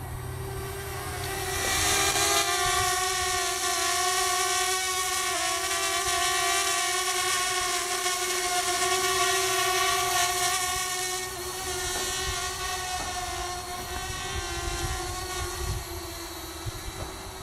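Parrot Bebop quadcopter's four propellers whining in flight, a steady pitched hum that grows louder about two seconds in as the drone comes close and eases off again in the last few seconds. Low rumble of wind on the microphone underneath.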